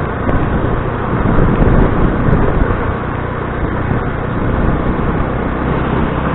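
Motor scooter running steadily under way, with steady road and traffic noise.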